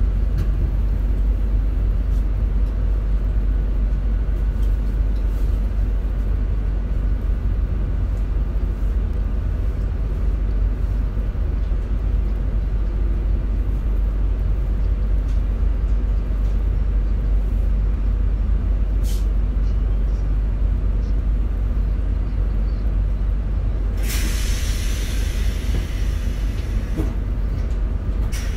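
Steady low rumble of an RER C commuter train heard from inside the carriage as it slows into a station. About four seconds before the end, a loud hiss of air starts suddenly and lasts several seconds, typical of the pneumatic brakes as the train comes to a stop.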